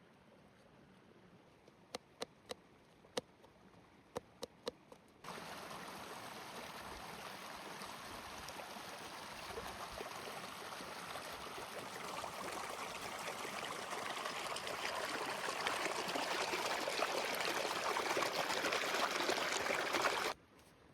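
A few sharp clicks, then about five seconds in a steady rush of running water starts suddenly. It grows gradually louder and cuts off abruptly just before the end.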